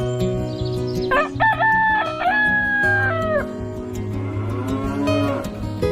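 A rooster crowing once, a long call that holds its pitch and then drops off, followed a couple of seconds later by a lower, shorter farm-animal call, all over background music.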